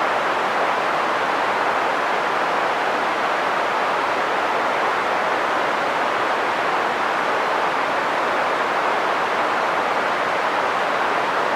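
Green noise: a steady, even hiss weighted toward the middle range, with little bass or treble, unchanging throughout.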